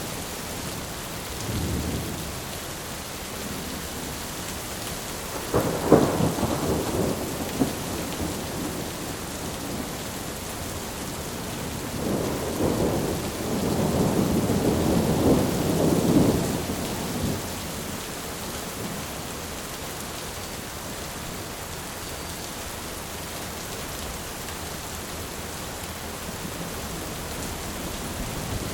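Steady rain hiss with thunder: a short faint rumble near the start, a sharp clap a few seconds later that rolls off over about two seconds, and a longer rolling rumble in the middle.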